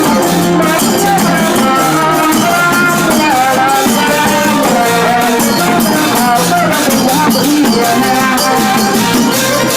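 Thai brass band (trae wong) playing a melody of held, stepping horn notes over continuous fast percussion hits.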